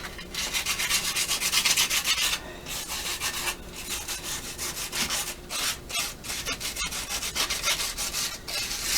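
Sandpaper rubbed by hand on the edge of a cast intake manifold, in quick back-and-forth scratchy strokes several times a second, with brief pauses; it is knocking down a sharp casting edge.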